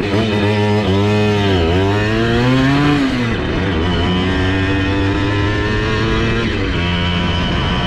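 Simson S51 moped's two-stroke engine with an 85cc kit, revving hard under way. The pitch falls and climbs again several times: a dip about one and a half seconds in, a sharp drop near three seconds, then a steady climb until it falls away just before the end.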